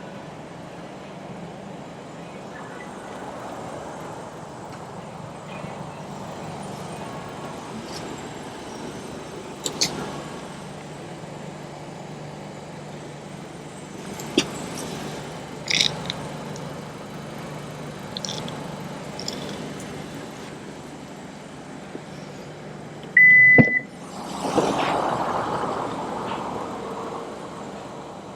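Small clicks over a steady low hum around a car. About 23 seconds in there is a short, high electronic beep, cut off by a sharp click, and then a few seconds of rushing noise.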